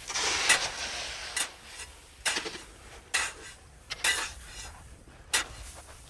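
Shovels scraping and biting into a heap of coarse sea salt: a repeated sharp scrape-and-clink about once a second, with a gritty crunching hiss between strokes.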